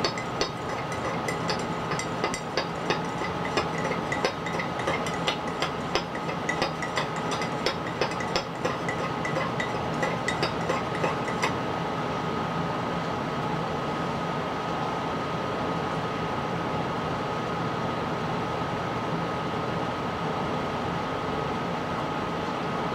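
A run of light clicks and clinks from small hard objects, a few each second, stopping about eleven seconds in. Under them is a steady room hum with a faint high tone, which carries on alone afterwards.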